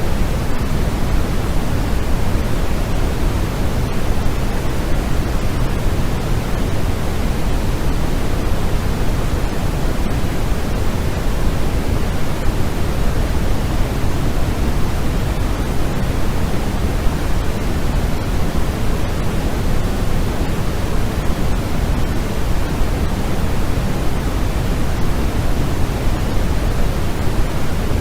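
Steady artificial white noise: an even, unchanging rushing hiss, heavier in the deep end than in the treble.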